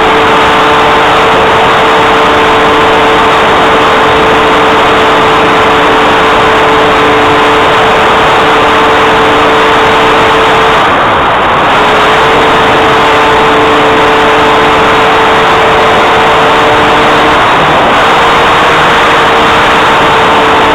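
Cessna 182 light aircraft in flight, heard from inside: a loud, steady drone of engine, propeller and rushing air. A few steady hums run through it and falter briefly twice.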